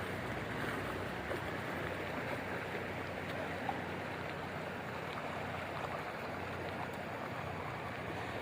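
Floodwater from an overflowing river flowing across a road, a steady rushing of water.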